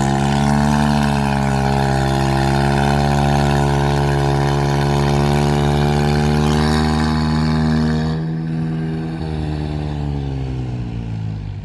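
Mahindra 575 DI tractor's four-cylinder diesel engine running steadily. About eight seconds in it gets quieter, and its pitch slowly sinks as the engine speed falls.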